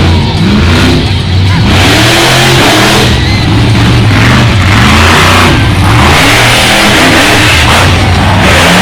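Monster truck engine revving hard during a freestyle run, the pitch climbing and dropping again and again, with loud noisy bursts as the throttle is opened.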